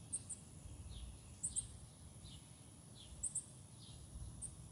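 Faint, short, very high bird chirps, often in quick pairs, every second or two, with fainter down-slurred chip notes between them, over a low background rumble.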